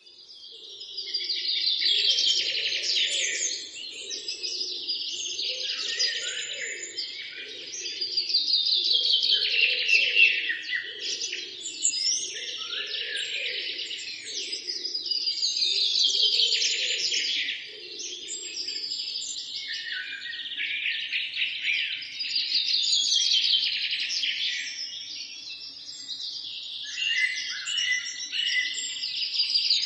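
Forest songbirds singing, with a long, busy song phrase repeating roughly every six or seven seconds and other chirps between. A fainter low pulsing sound runs underneath and stops about two-thirds of the way through.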